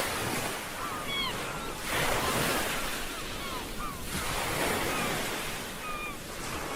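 Ocean surf washing in waves, swelling about two seconds in and again midway. Short high chirping calls sound over the surf throughout.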